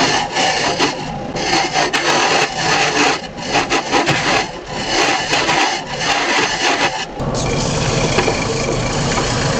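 Hollowing tool cutting inside a spinning laminated-wood jar on a wood lathe: an irregular scraping of steel on end grain with short breaks. About seven seconds in the cutting stops and only the steady hum of the running lathe is left.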